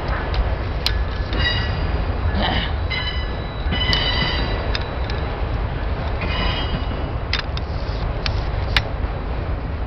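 Freight train cars rolling past at low speed: a steady low rumble of wheels on rail, broken several times by high-pitched metal wheel squeals and a few sharp clanks, the loudest near the end.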